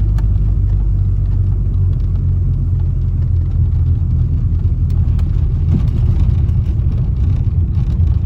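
Steady low road rumble heard inside a moving car, the engine and tyres droning, with a few faint knocks and rattles.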